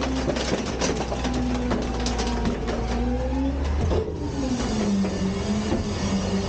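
Garbage truck engine running at a transfer station, with scattered knocks and clanks over the first few seconds; about four seconds in a low hum stops and the engine note drops in pitch, then holds steady.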